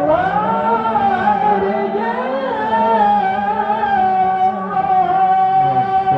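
A singer's voice in a melismatic, ornamented melody that settles about halfway in onto a long held high note, over a steady low drone.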